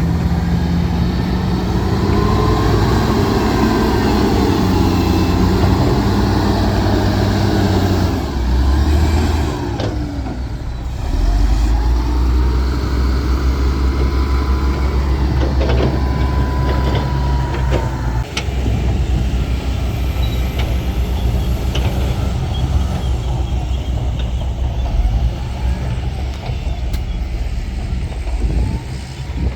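Heavy diesel earthmoving machinery working: a deep engine note that drops briefly about eight to eleven seconds in and then picks up again, with higher whining tones rising and falling over it.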